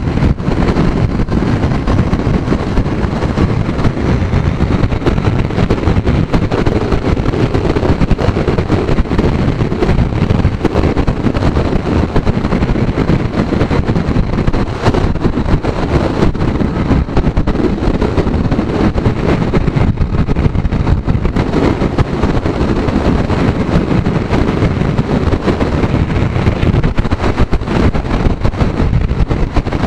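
Wind buffeting the microphone of a motorcycle riding at road speed, a loud, steady rushing rumble with no break.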